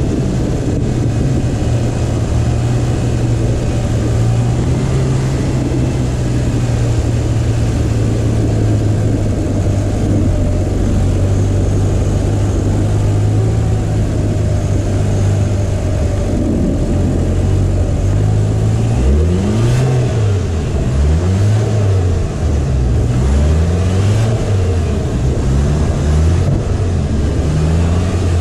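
A Seat Leon Cupra's engine running steadily under an even hiss of tyres on packed snow, heard from the front bumper. About two-thirds of the way through, the revs start rising and falling again and again as the throttle is worked while the front-wheel-drive car slides on the snow.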